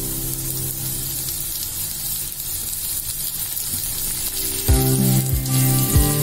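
Sliced onions and green chillies sizzling steadily as they fry in a nonstick pan. Background music comes back in near the end, with a few low thumps.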